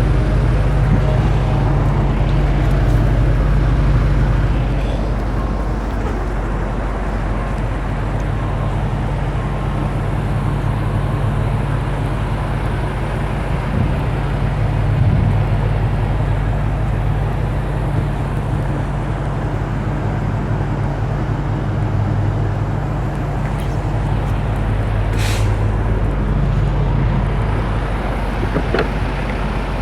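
The BMW X5 M Competition's 4.4-litre twin-turbo V8 idling steadily, heard through the quad exhaust at the rear, with a brief hiss about 25 seconds in.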